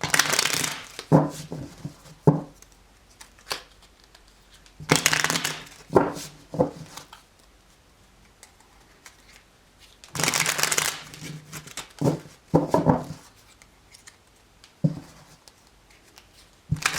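A deck of tarot cards being shuffled by hand: bursts of rustling card noise about every five seconds, each about a second long, with short knocks between them.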